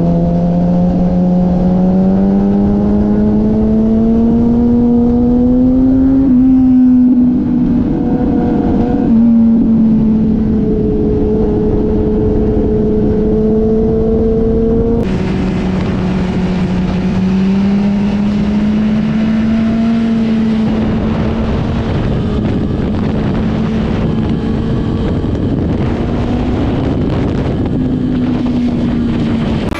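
Sport motorcycle engine running hard on a race track, its note slowly climbing, dropping back about six seconds in, then holding fairly steady with small rises and falls. Heavy wind rush on the microphone runs under it.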